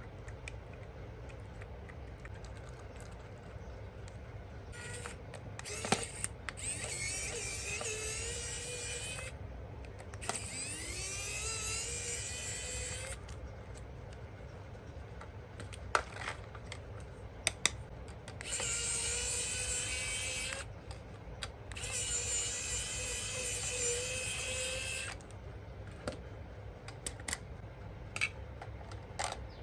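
Small electric motor of a remote-control toy whirring in four bursts of a few seconds each, the pitch rising as it spins up, with scattered plastic clicks between the bursts.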